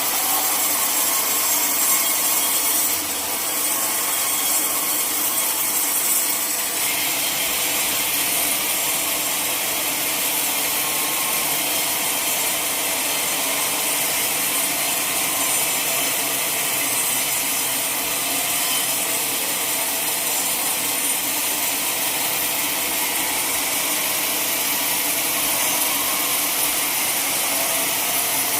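Sawmill saw running through a log: a steady, hissing cutting noise whose tone changes abruptly about three and seven seconds in.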